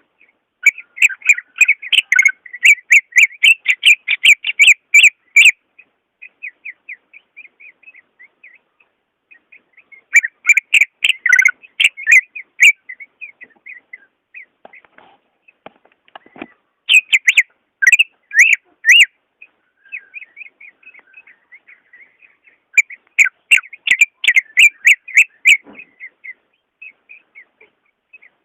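Cucak ijo (green leafbird) singing. Four loud bouts of rapid whistled notes, each lasting a few seconds, come with softer scattered chattering between them.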